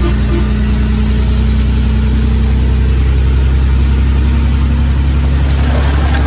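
Heavy diesel engine of earthmoving machinery running steadily with a deep drone. A light rattle starts near the end.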